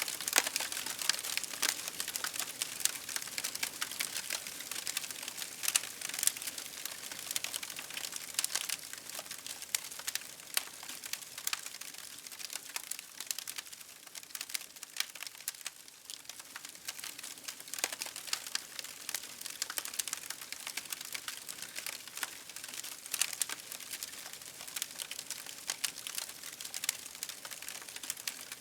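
Wood fire crackling in a fireplace: a dense, irregular run of small pops and snaps with no flames' roar beneath.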